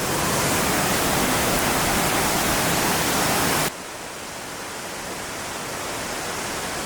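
Steady rush of Watson Falls, an almost 300-foot waterfall, as a continuous hiss of falling water. A little past halfway it drops suddenly to a quieter rush.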